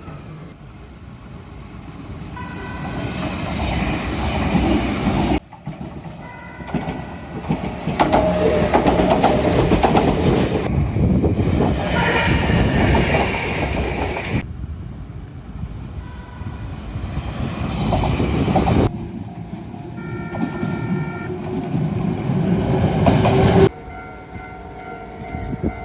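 Shizuoka Railway electric trains sounding short horn blasts, several chords of steady tones, while running past with loud wheel and rail noise. The sound jumps abruptly several times between separate passes.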